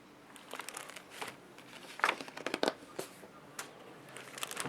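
Paper rustling and crinkling in short, irregular bursts as the pages of a picture book are handled and turned, the loudest about two seconds in.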